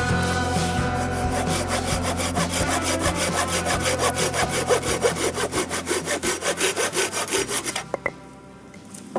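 Hand saw cutting firewood in quick, even strokes, which stop about eight seconds in.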